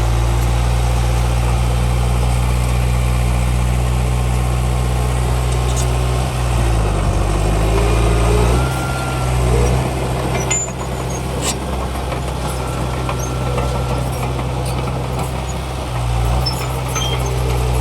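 Heavy diesel engine of earthmoving machinery running steadily, its pitch dipping and shifting for a few seconds about a third of the way in before settling again. A couple of sharp knocks come about two thirds of the way in.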